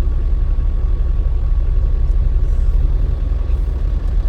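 Steady low rumble of a truck's engine and road noise while driving.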